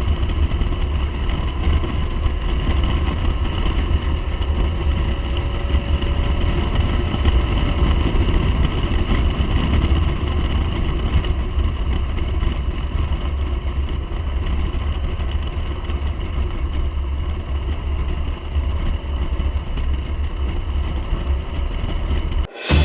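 A motorcycle running steadily at road speed, with heavy low wind rumble on the microphone.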